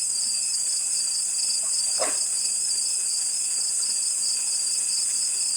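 Crickets chirring in a steady, high-pitched night chorus, with one brief faint sound about two seconds in.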